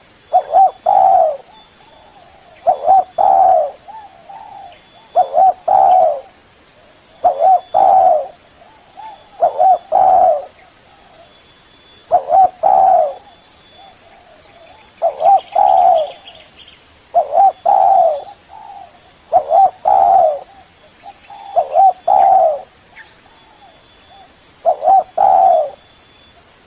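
Spotted dove cooing its repeated phrase, a short note followed by a louder drawn-out pair, about every two seconds.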